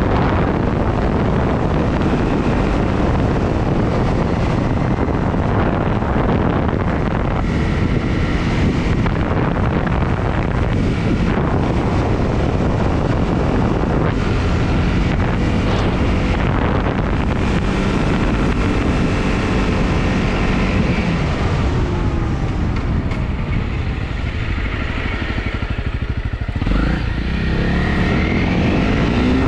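Honda CRF250 single-cylinder four-stroke engine running on the move, with wind rushing over the microphone. About two-thirds through, the engine note falls as the bike slows, then rises again near the end as it accelerates.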